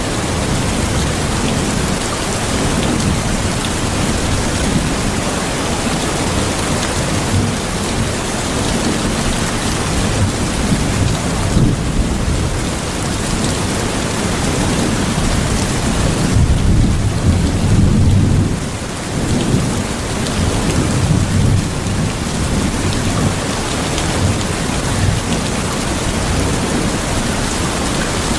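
Steady heavy rain with low rolling rumbles of thunder that swell and fade, the strongest about two-thirds of the way through.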